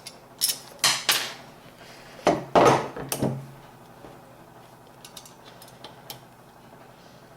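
Hard drive and computer-case drive cage being handled while the drive is fitted: a cluster of clattering knocks in the first three seconds or so, the loudest about two and a half seconds in, then only faint small clicks.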